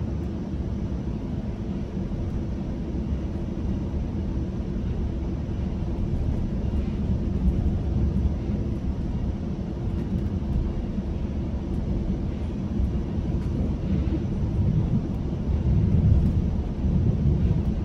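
GO Transit commuter train running at speed, heard from inside a passenger coach: a steady low rumble of wheels on rail with a few low hums, swelling briefly near the end.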